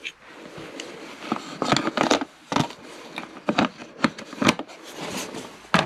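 Irregular clicks, taps and light knocks of wooden pieces and small tools being handled on a workbench, some sharper and louder than others.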